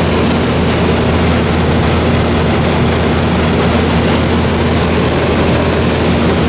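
A 1986 Carrier 3-ton (36,000 BTU) wall heat pump running in cooling mode, very loud. Its compressor is under load, having already built head pressure, and it makes a steady low hum with a rush of fan air that does not change.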